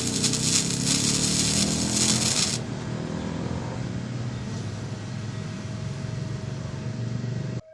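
Flux-core MIG welding arc crackling and sizzling steadily, cutting off abruptly near the end as the arc stops.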